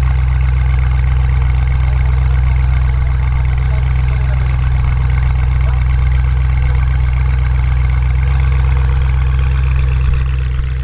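Audi RS6 Avant C8's twin-turbo 4.0 V8, with a decat Capristo exhaust and OPF delete, idling steadily with a low, even note.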